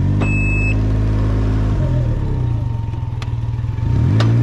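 A Can-Am Ryker 900's three-cylinder engine running at low revs while manoeuvring slowly. Its note drops about two seconds in and rises again with a little throttle near the end. A short electronic beep sounds at the start, and a couple of sharp clicks are heard later.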